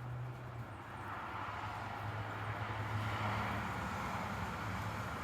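A passing motor vehicle: a low engine hum with tyre and road noise that swells to its loudest about three seconds in.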